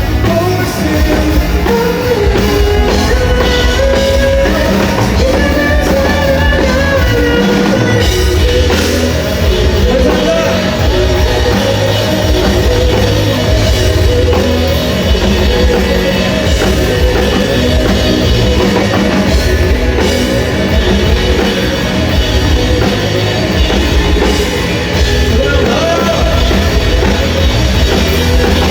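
A rock band playing loudly and steadily, live: a pounding drum kit and bass under guitars, with a sung lead melody.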